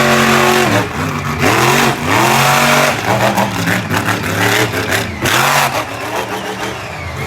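Monster truck engine revving, its pitch rising and falling several times in quick blips.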